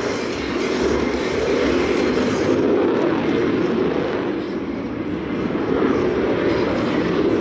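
Jet roar from the twin AL-31FP turbofan engines of a Su-30MKM fighter, loud and steady, easing slightly about five seconds in before building again.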